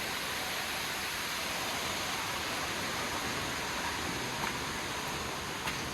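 Steady rush of falling water from a small waterfall, with a couple of faint ticks near the end.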